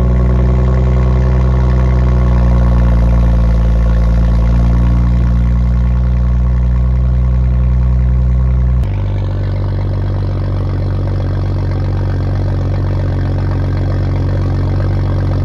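BMW N55 turbocharged straight-six of an F30 335i, exhausting through a muffler delete, running at a steady fast idle just after start-up. About nine seconds in the idle drops abruptly to a lower, quieter pitch and holds there.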